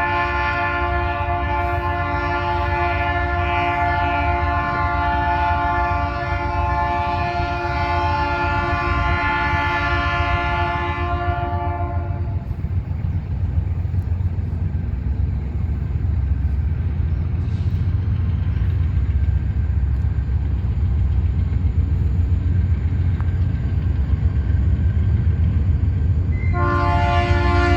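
Diesel locomotive air horn sounding a long chord of several tones that stops about twelve seconds in and starts again near the end. Under it is the steady low rumble of the locomotive's diesel engine.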